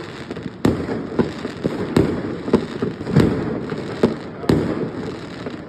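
Fireworks going off: a string of sharp bangs roughly every half second to a second, over a steady crackle.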